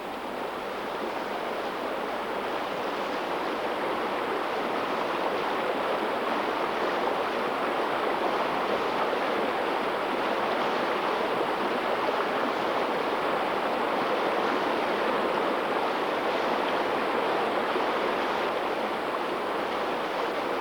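Waterfall: a steady rush of falling water that holds level throughout.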